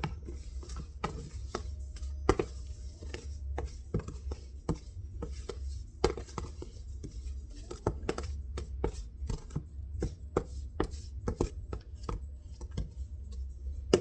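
A spoon knocking and scraping in a mixing bowl of snow cream: short, irregular clicks and knocks, about two or three a second.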